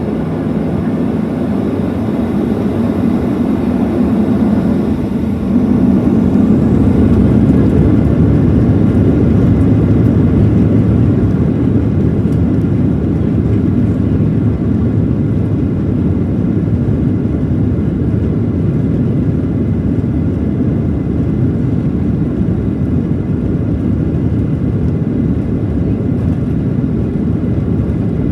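Cabin noise of a Boeing 737-700's CFM56-7B jet engines and airflow, heard from a window seat inside the cabin: a steady dense rumble that grows louder and deeper about five and a half seconds in, then holds steady.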